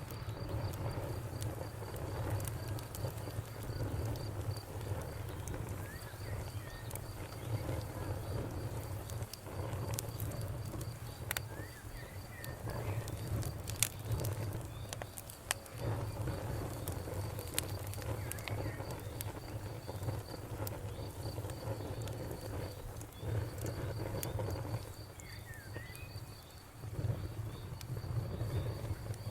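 Wood fire crackling, with frequent sharp pops and snaps over a steady low rumble of flame. Behind it, a cricket chirps in a fast, even high trill that pauses briefly now and then.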